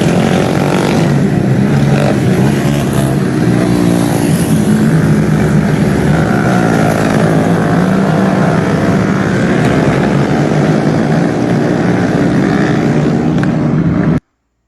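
A group of motorcycles with loud exhausts running and revving together, a dense engine racket with the pitch rising and falling. The sound cuts off abruptly near the end.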